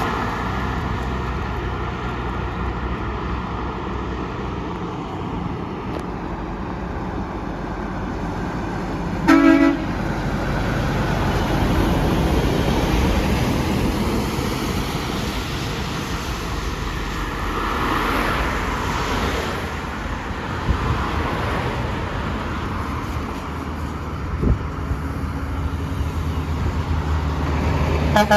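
Road traffic passing steadily, with a single short vehicle horn toot about nine seconds in.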